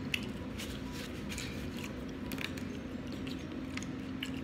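Close-up mouth sounds of eating: soft chewing and lip smacks as scattered short clicks over a faint steady hum. Near the end a plastic water bottle is handled and its cap twisted open.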